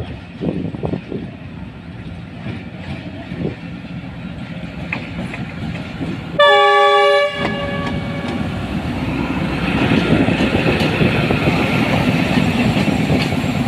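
ZCU-20 diesel-electric locomotive sounding its horn once for about a second, about halfway through. Afterwards the rumble of the arriving train grows steadily louder.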